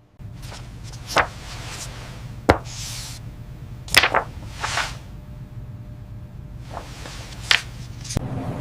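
About six quick swishing strokes, spread unevenly, over a steady low hum.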